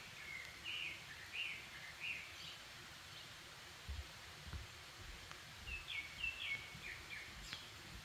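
A songbird singing in the forest: a run of short chirped notes in the first two and a half seconds, then another run near the end, over a faint steady background hiss. A few soft low thumps come in the middle.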